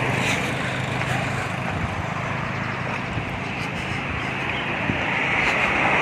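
Road traffic going by on a busy road: a steady rush of tyre and engine noise, with an engine hum fading away early, a lull in the middle and traffic swelling again near the end.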